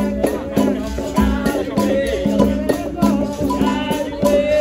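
Capoeira roda music: berimbaus playing a steady rhythm with the rattle of caxixi shakers, and voices singing over them.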